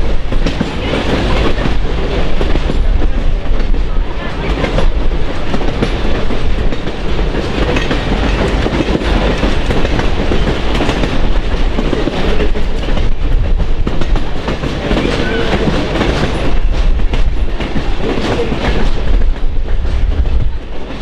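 A passenger train running along the track: a steady, loud rumble of wheels on rail with irregular clicks.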